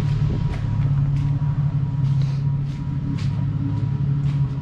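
A steady low engine hum with a faint high steady tone above it. Scattered light knocks and clatter come through it as things are handled and set down.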